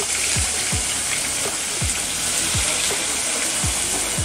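Onion paste frying in hot oil in a non-stick kadai: a steady, dense sizzle as the wet paste hits the oil.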